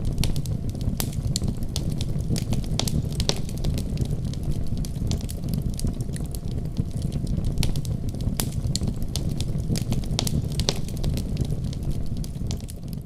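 Wood fire crackling in a fireplace: irregular sharp pops and snaps over a steady low rumble, fading out near the end.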